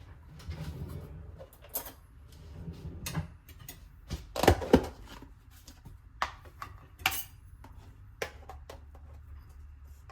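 Kitchen utensils and dishes knocking and clinking as a meal is prepared: a scatter of separate knocks, the loudest two close together about four and a half seconds in.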